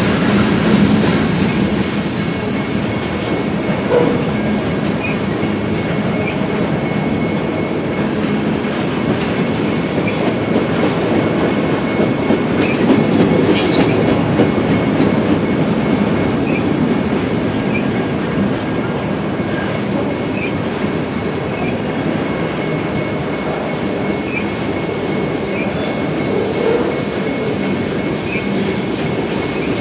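Freight train cars rolling past at close range, a steady rumble of steel wheels on rail with a running clickety-clack as the trucks cross the rail joints. The cars are autoracks, then open gondolas.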